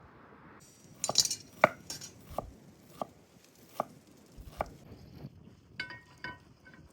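Chopping: about six sharp strokes, unevenly spaced, followed by a few short ringing metallic clinks near the end.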